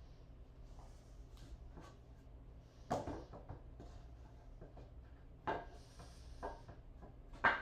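A few separate knocks and clatters, as of things being handled and set down: sharp ones about three seconds in, at about five and a half seconds and near the end, the last the loudest, with fainter taps between, over a low steady hum.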